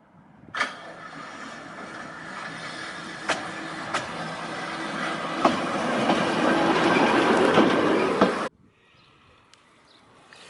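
Narrow-gauge electric railway car running on its track, growing steadily louder, with sharp clicks of the wheels over rail joints every second or so. It starts and cuts off suddenly.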